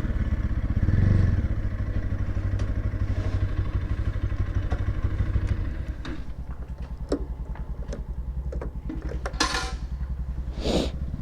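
Motorcycle engine running, then dropping to a quieter idle about six seconds in, with a few sharp clicks and two short hissy bursts near the end.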